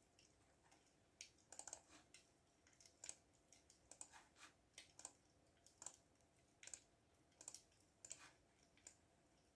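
Typing on a computer keyboard: quiet, irregular key clicks, starting about a second in.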